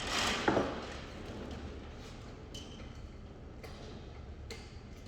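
Faint handling noise: a brief rustle about the first half second, then low background noise with a few light ticks.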